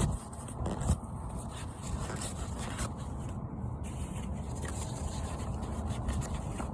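Faint rubbing and scraping as an oily engine oil drain plug bolt is wiped clean by hand, with one light knock about a second in, over a steady low background rumble.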